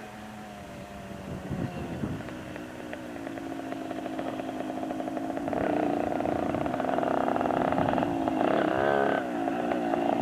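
Motorcycle engine running, growing steadily louder as it comes closer, with the revs rising and falling a couple of times near the end.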